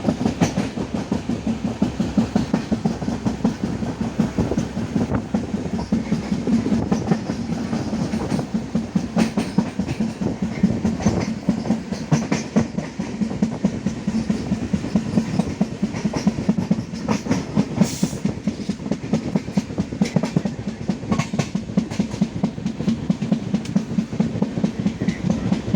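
Passenger train running at speed, its wheels clicking over the rail joints in a fast, steady clickety-clack over a constant low rumble.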